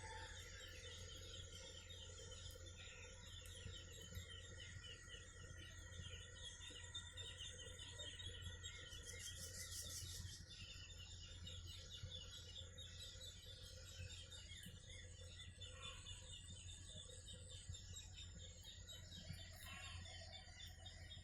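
Faint birds chirping over a steady low hum, with a brief high hiss about halfway through.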